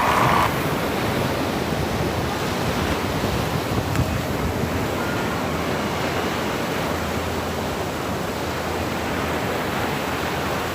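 Steady rushing water noise with no break, like surf or a waterfall, and a brief higher sound right at the start.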